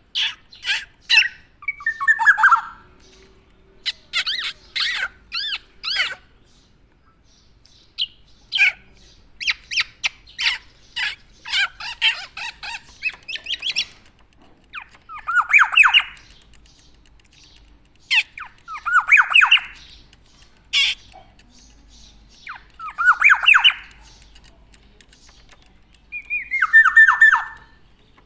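Black-naped oriole (kepodang) calling. Runs of short sharp notes alternate with harsh, falling squawks that come every few seconds.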